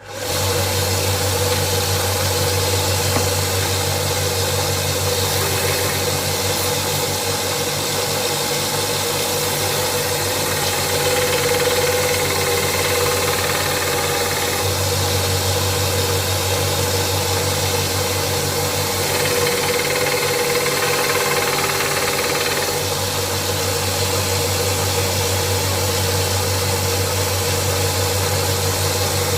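Small 1-inch belt and disc sander running steadily with a low hum. A steel chisel is ground against its fine knife-sharpening belt in several passes of a few seconds each to flatten the chisel's back.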